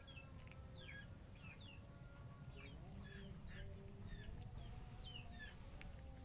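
Faint birds chirping: many short, quickly falling chirps repeated several times a second, over a steady low rumble.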